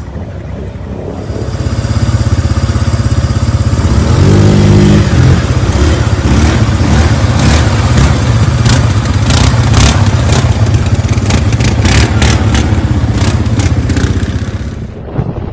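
Off-road motorcycle or UTV engine running hard and revving, with repeated clattering knocks through the middle, ending abruptly near the end.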